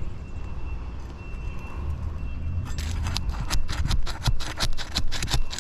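Asphalt shingle being pried up against its tight sealant strip: a quick, irregular run of sharp crackling and rasping as the sealed tab pulls loose and tears, starting a little under halfway through. The shingle tears rather than coming away whole.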